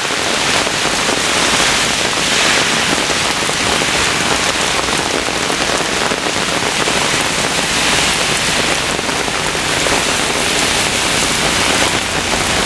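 Heavy downpour of rain pouring and splashing on hard surfaces, a dense steady hiss that swells and eases slightly every few seconds as the wind drives it.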